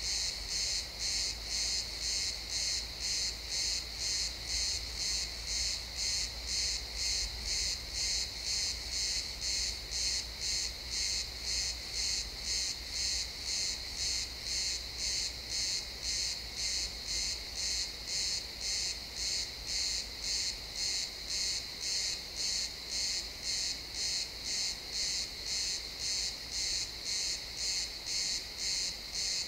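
Crickets chirping in a steady, even rhythm of about one and a half pulsing chirps a second, high-pitched and unbroken throughout.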